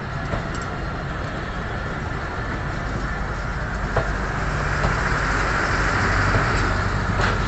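Passenger coaches of a departing train rolling past close by: a steady rumble and hiss of wheels on the rails, growing louder toward the end, with a few sharp clicks.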